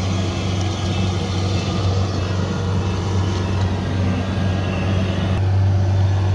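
Kubota combine harvester's diesel engine running steadily under load, a deep even hum, with a few faint short beeps now and then.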